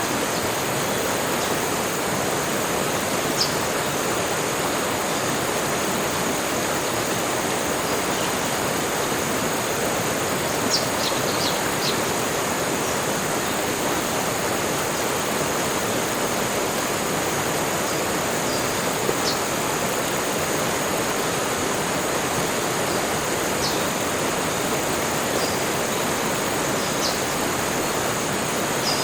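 Tropical forest ambience: a steady rushing like running water, with a constant high insect drone. Brief high bird chirps come through now and then, a few in quick succession about ten seconds in.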